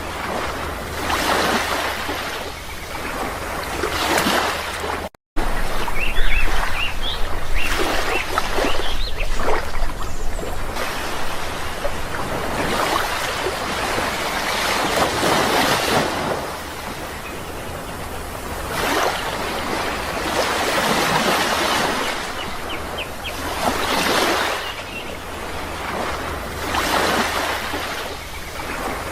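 Sea waves washing onto a shore, the surf swelling and falling back every few seconds, with a few faint bird chirps about six to ten seconds in and again near the end. The sound cuts out for a moment about five seconds in.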